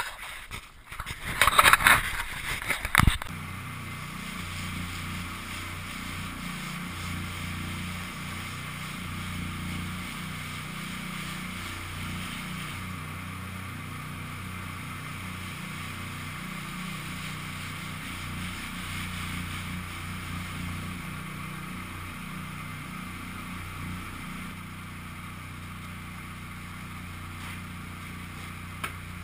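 Loud rattling and knocking of the camera being handled and set down for the first three seconds, then a Peugeot 206 Rallye's four-cylinder engine running steadily at idle.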